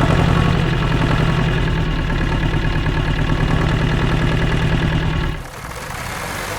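An engine running steadily at idle, a low even hum that cuts off abruptly about five seconds in, leaving a quieter background sound.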